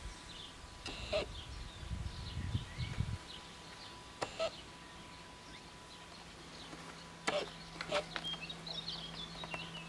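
Birds chirping on and off, with a few sharper calls. A brief low rumble comes about two seconds in.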